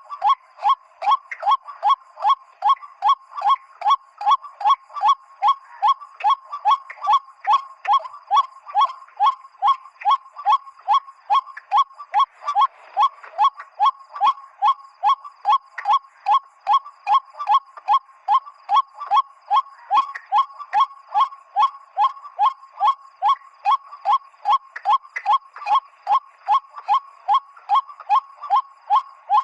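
A loud, unbroken series of white-breasted waterhen 'kruak' calls, about two short downward-bending notes a second at a steady rhythm. It is a lure call made to draw waterhens in.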